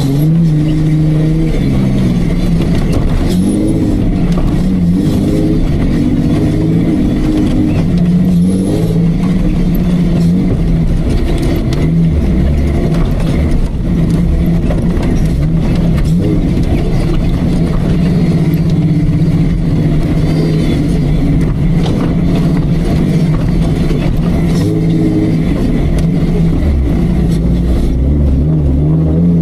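Off-road Jeep's engine running hard, its revs rising and falling again and again as it is driven over rough terrain.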